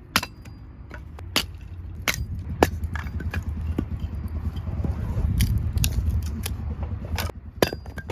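A series of sharp clicks and knocks, irregularly spaced, over a steady low rumble.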